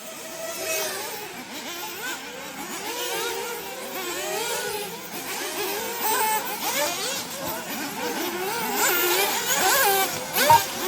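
Several 1/8-scale nitro off-road RC buggies racing, their small glow engines revving up and down over one another as they accelerate and brake around the track. There is a short beep near the end.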